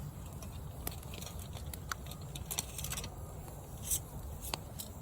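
Campfire crackling under a cast iron pan, with scattered sharp pops and ticks every fraction of a second over a steady low rumble.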